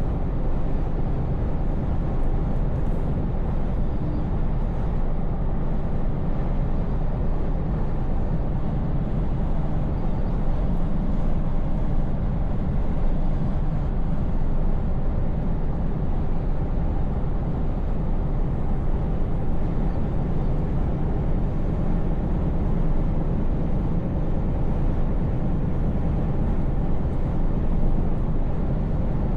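Scania V8 truck engine running steadily at cruise, a low even hum under a constant wash of tyre and road noise.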